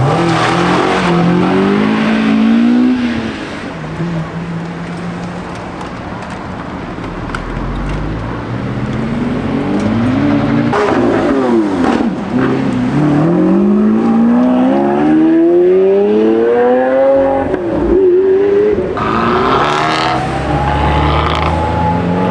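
Several car engines revving and accelerating away, their exhaust note rising in pitch in several overlapping sweeps. Near the end a steady high tone joins in.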